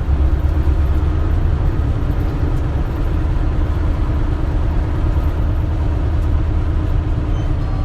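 Isuzu Erga (KL-LV280L1) city bus engine running steadily, a low even rumble heard from inside the passenger cabin.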